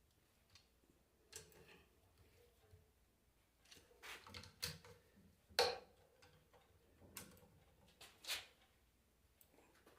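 Scattered light clicks and small metallic knocks of alternator parts and hand tools being handled, with the loudest knock a little past the middle.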